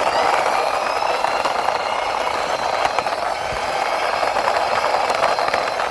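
Toy cement mixer truck's wheels rolling steadily as it is pushed along by hand, a continuous rolling rumble with a faint whine.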